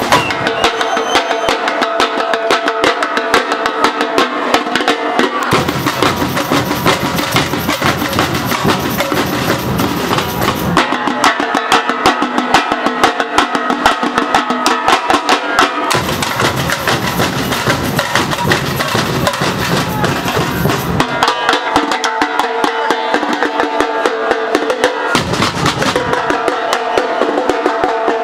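Brazilian university bateria, a percussion ensemble, playing a fast, dense groove of snare drums over bass drums. The bass drums drop out for a few seconds at a time, leaving the snares and higher drums alone, and then come back in.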